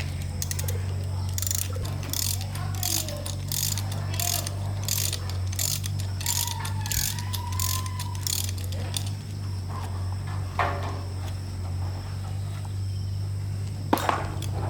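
A hand tool worked in even strokes on metal engine parts, about two strokes a second for several seconds, then a couple of sharp clicks, all over a steady low hum.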